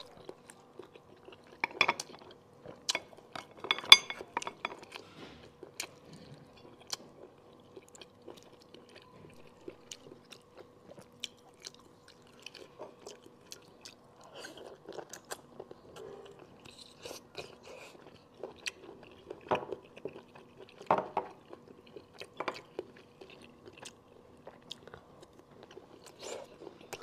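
Close-miked chewing and biting of cooked conch meat, with sharp clicks and taps of a bamboo stick against the shell as the meat is picked out, loudest about two to four seconds in and again near twenty seconds.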